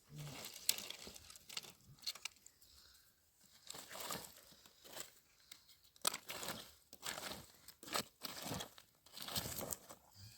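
Irregular crinkling and rustling, a string of short rustles and crackles of something being handled by hand.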